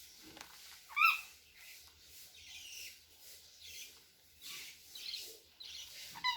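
Cockatiel giving one short, loud chirp with a quick rise and fall in pitch about a second in, and another brief chirp near the end. Quieter scratchy rustling sounds come in between.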